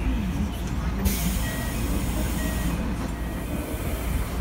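Keikyu 1500 series electric train running, heard inside the cab: a steady low rumble with faint wavering tones from its Mitsubishi IGBT VVVF inverter. About a second in, a sudden loud hiss joins, then eases after a couple of seconds.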